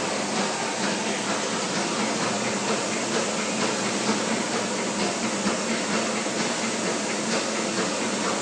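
Steady machine noise: an even hiss with a faint low hum underneath and a few light ticks, unbroken throughout.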